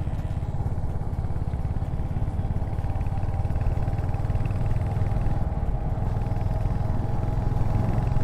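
Royal Enfield Hunter 350's single-cylinder engine running steadily on the move, a dense low exhaust beat.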